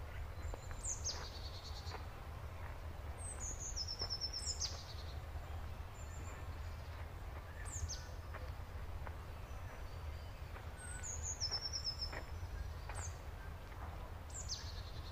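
A small songbird singing a short, high phrase that falls and ends in a quick trill, repeated every few seconds, over a steady low rumble.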